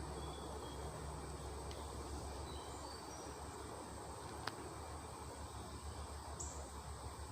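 Small birds chirping faintly in short high notes over a steady low hum, with one sharp click about four and a half seconds in.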